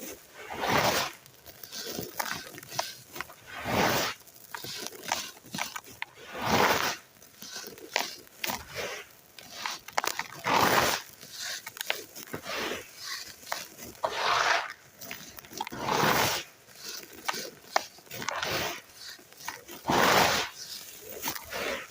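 Dry, gritty red sand or dirt chunks crumbled by hand, giving a series of crunchy, gritty bursts every second or two with small crackles in between.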